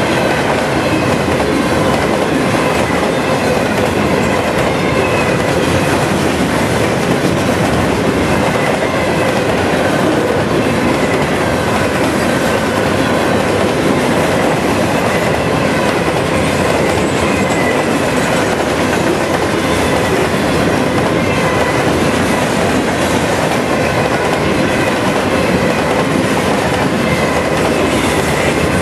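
Long freight train of steel open-top coal gondolas passing close by: a steady loud rumble and clatter of wheels over the rails, with faint thin squealing tones coming and going.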